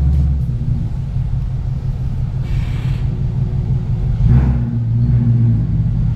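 Ford Mustang GT's V8 running at low speed through a Flowmaster aftermarket exhaust, a deep steady rumble that swells briefly about four seconds in and again at the end.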